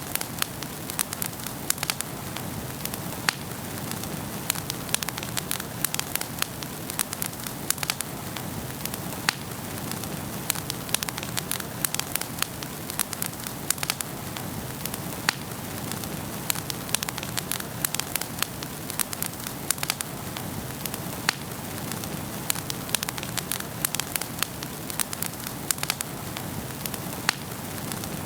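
Wood fire burning in a fireplace, crackling with many sharp pops at an irregular rate over a steady low rush of the flames.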